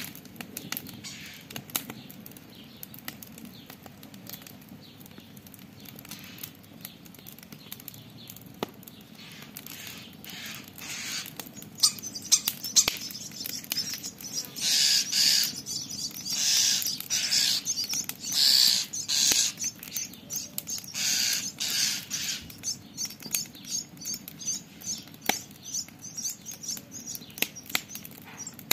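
Campfire crackling with sharp pops throughout. From about ten seconds in, a common starling gives a run of harsh scolding calls, each about half a second long, loudest between roughly 14 and 22 seconds in and then trailing off.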